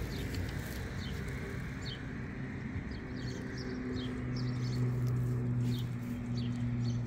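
Small birds chirping, with short high chirps coming irregularly, over outdoor background noise. A steady low hum grows louder from about four seconds in.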